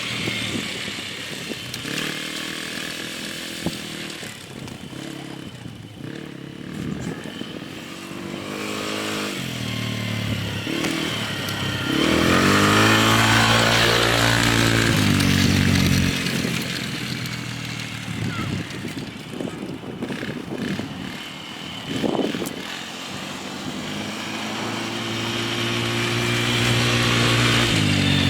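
A small off-road quad's engine revving up and down as it is ridden, rising in pitch under throttle and dropping off between bursts. It is loudest as it comes close about twelve seconds in.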